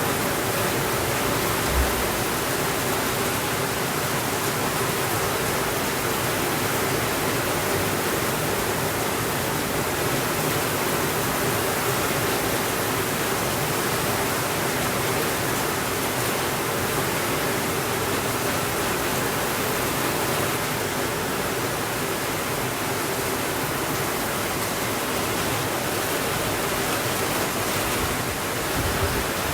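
Steady rainfall, an even hiss of rain that never lets up, with a brief low thump about two seconds in.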